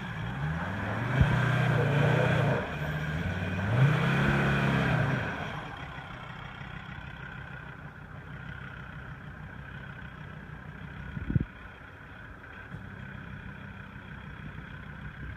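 Engine revving, its pitch dropping and climbing again several times over the first five seconds, then running more quietly and steadily. There is one short knock near the middle.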